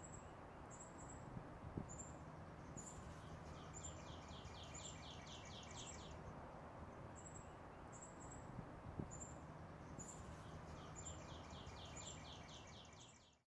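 Faint birdsong over a steady background hiss: short high chips every second or so, and twice a quick run of repeated trilled notes lasting a few seconds. It fades out near the end.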